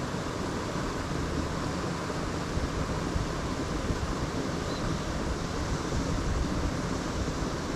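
Steady rushing of shallow creek water running over rocks.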